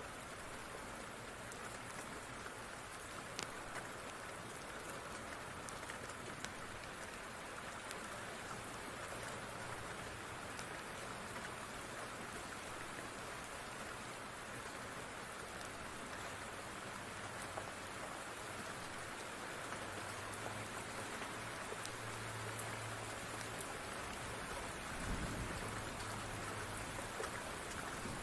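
Steady rain falling, with a few sharp ticks and a low rumble that builds in the second half and peaks near the end.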